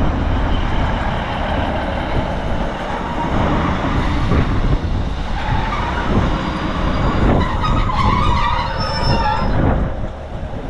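ScotRail Class 156 Super Sprinter diesel multiple unit pulling into the platform and slowing to a stop: diesel engine rumble and wheel noise, with a high squeal from the wheels and brakes about seven seconds in.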